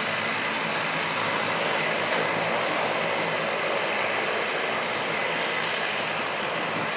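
Jet airliner engines running steadily at a distance, an even rushing noise with a faint high whine.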